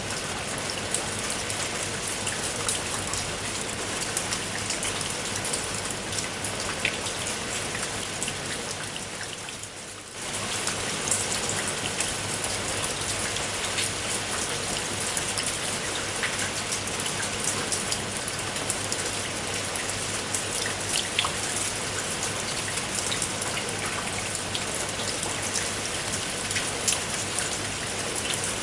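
Steady rain falling, with a dense hiss and individual drops ticking on a surface. It fades briefly about ten seconds in, then comes back at full strength at once.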